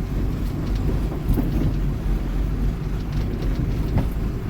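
Tata Ecomet 1214 truck's diesel engine running with a steady low drone.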